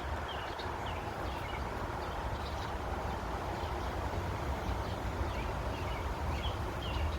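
Small birds giving short, faint chirps now and then over a steady low outdoor rumble.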